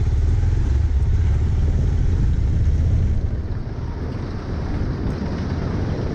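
Bajaj Pulsar 220F's single-cylinder engine running under way, with a heavy rumble of wind and road noise. It eases off a little about three and a half seconds in.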